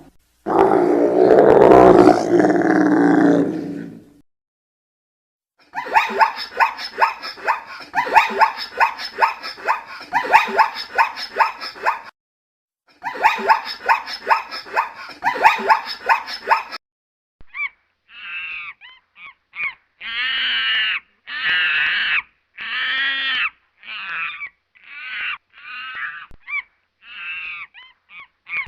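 A succession of different animal calls. First comes a loud, rough growl-like call, then two long runs of rapid, evenly repeated calls, then, from about the middle on, a string of short calls that each rise and fall in pitch.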